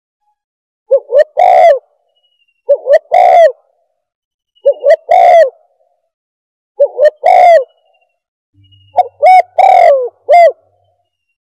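Spotted dove (tekukur) cooing, a recorded bird-caller lure call. Five loud phrases come about every two seconds, each two short coos followed by a longer one that falls at the end.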